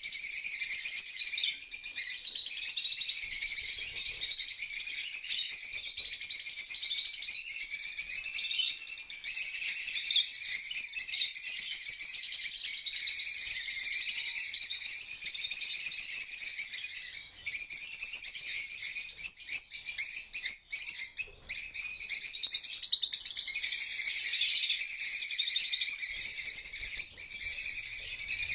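A flock of small parrots chattering and chirping continuously, many high, overlapping calls at once, with a couple of brief lulls past the middle.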